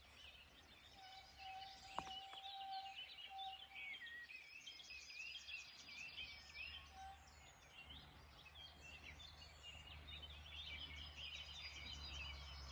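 A chorus of small songbirds singing, with many quick chirps and trills, over a faint low rumble that swells in the second half. A single sharp click about two seconds in.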